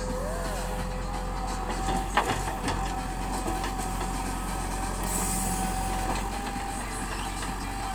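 JCB 3DX Super backhoe loader's diesel engine running steadily under work, with a steady high whine over it and a single sharp knock about two seconds in.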